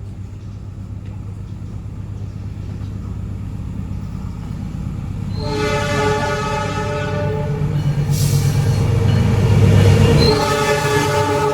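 CC 202 diesel-electric locomotive approaching, its engine rumble growing louder. Its multi-tone air horn sounds a long blast starting about halfway, then a second blast near the end.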